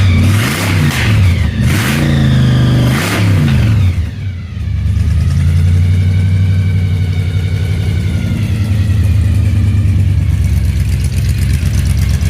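Funny car V8 engine revved in a few quick blips, each rising and falling, then dropping back about four seconds in and settling into a steady idle.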